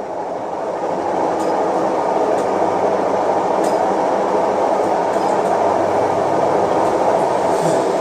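Tumble dryer running with a man inside its drum: a steady rumbling whir with a few faint knocks.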